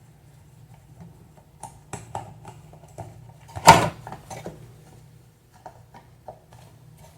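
Small clicks and knocks from electric fan parts being handled and worked apart, with one loud sharp knock a little over halfway through, over a steady low hum.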